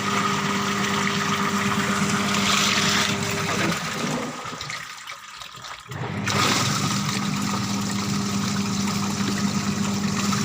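LG washing machine running with its motor humming and water churning. It stops about four seconds in and starts again about two seconds later, the run-and-pause pattern of a wash cycle.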